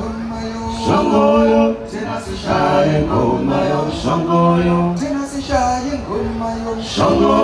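Music: a man singing, holding long steady notes in several phrases.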